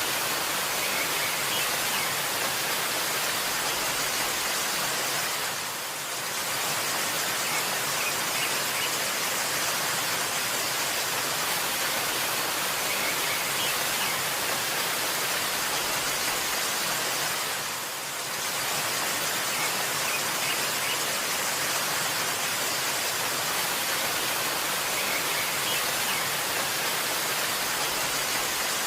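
Waterfall rushing steadily, with faint high bird chirps now and then. The rush dips briefly twice.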